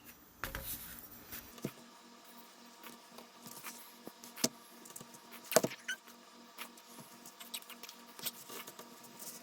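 Light handling noises from work on a steel axe head: soft scratching and scattered small clicks, with one sharper knock about five and a half seconds in.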